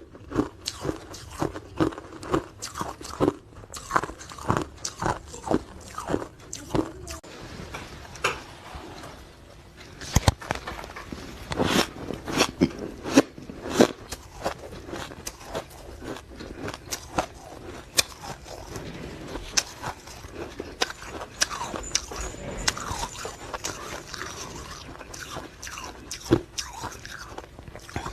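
Ice being bitten and chewed close to the microphone: repeated sharp crunches and cracks. The crunches come several a second at first and are loudest about ten to fourteen seconds in, then ease into quieter grinding chewing.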